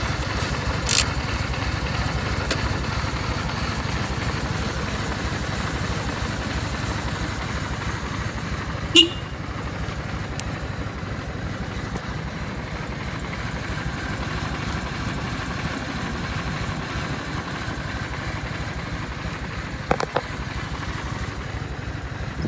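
Kawasaki W650's air-cooled parallel-twin engine idling steadily after a cold start. A short sharp sound comes about nine seconds in, and a couple of smaller knocks come near the end.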